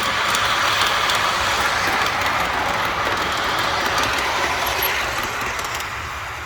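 Outdoor model train running past on its track: a steady whir of motor and wheels on the rails that swells, then fades as it goes by.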